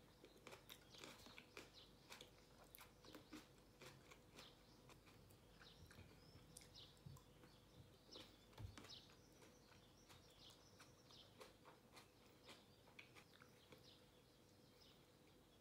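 Quiet eating sounds: soft chewing and crunching of mixed nuts, with small clicks, and faint bird chirps in the background.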